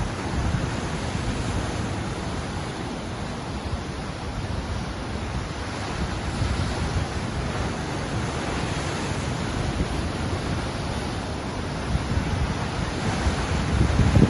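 Ocean surf: waves breaking and washing in as a continuous rush with a deep low rumble, swelling a little about halfway through and building again near the end.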